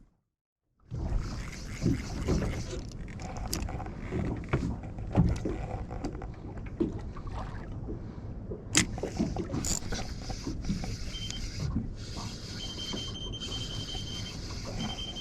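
Wind on the microphone and water slapping against a small fishing boat, with scattered knocks and clicks aboard. A thin, high, steady tone joins in for the last few seconds.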